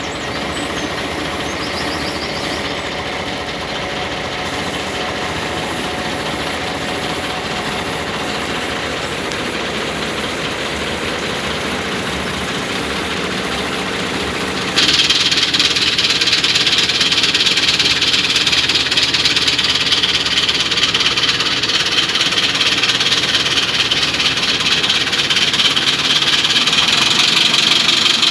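Miniature railway locomotive's diesel engine running steadily. About halfway through, the sound suddenly gets louder, with a strong added hiss.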